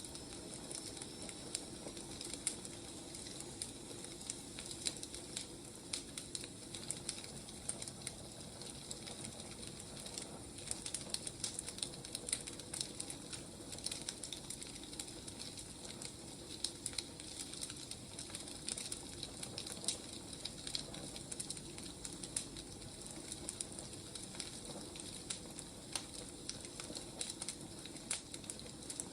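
Firewood burning, a steady hiss with frequent irregular crackles and pops.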